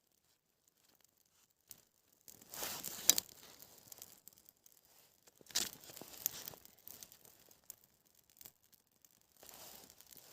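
Three bursts of close rustling and tearing with a few sharp clicks, after a quiet start: something being torn and crumpled by hand.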